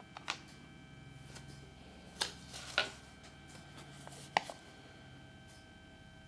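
Small plastic toys being handled: four light clicks and taps spread over a few seconds, over a faint steady hum.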